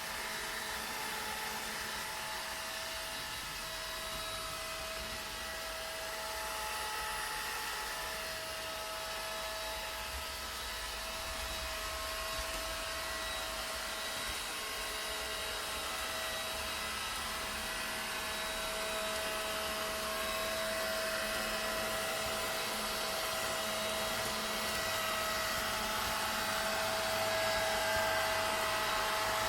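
Vacuum cleaner motor running steadily, a continuous whooshing drone with a steady whine on top, played as white noise for lulling babies to sleep.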